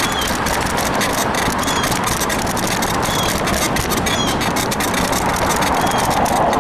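Bicycle ride heard from the rider: steady wind and road noise with a constant rattle of small clicks from the bike, and short squeaks every second or two, which the rider puts down to a worn suspension bushing on the frame.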